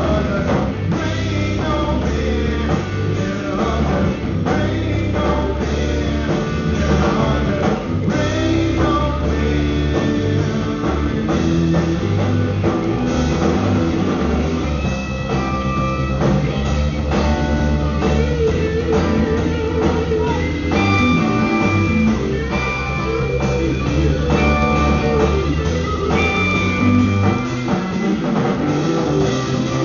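A live band playing a rock-blues jam, with guitar and drum kit. From about halfway through, long high notes are held over the groove.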